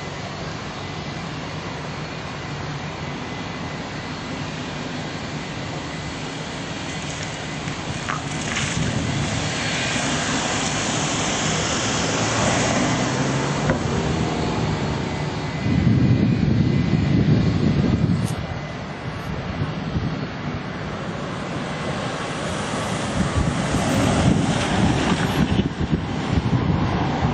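Airliner passing at an airport: engine noise builds to a loud low rumble about sixteen seconds in, eases off, then swells again near the end, with wind on the microphone.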